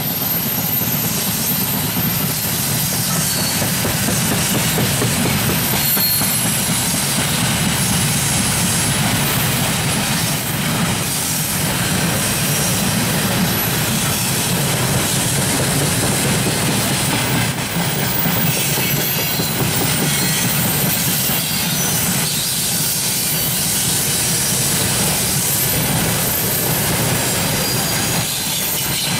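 Freight train of open gondola wagons rolling past at close range: a steady rumble of steel wheels on the rails, with a thin high wheel squeal at times.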